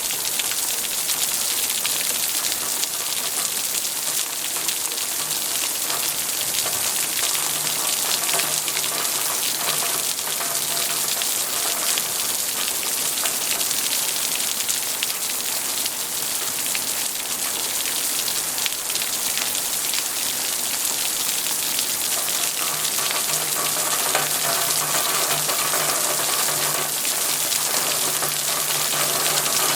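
Steady rain falling on a surface, a dense, even hiss with a patter of drops and no let-up.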